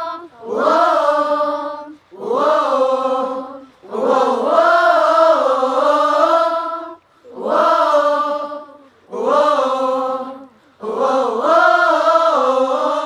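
Wordless singing on sustained vowels, six drawn-out phrases with short breaks between them, no instruments heard.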